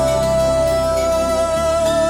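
Song intro: one long held sung 'ho' note over a steady low musical accompaniment.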